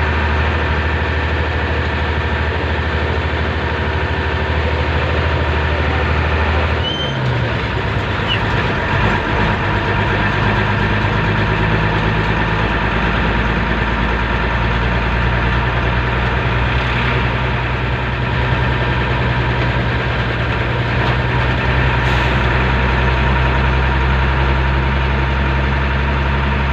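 Motorcycle engine running steadily while riding, a constant hum whose pitch shifts about seven seconds in, as with a change of speed or gear.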